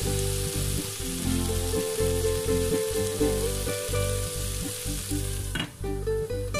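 Pumpkin and onion sizzling in hot oil in a frying pan, cut down sharply by a click about five and a half seconds in as a glass lid is set on the pan. Background music plays underneath.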